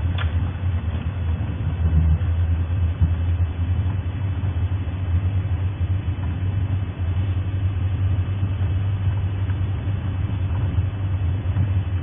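Safari game-drive vehicle's engine running as it drives along: a steady low drone with even road noise.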